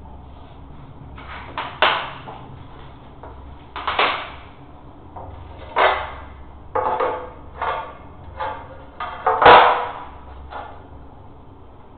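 A series of about a dozen irregular knocks, some in quick pairs, each with a short ring after it. The loudest comes near the end.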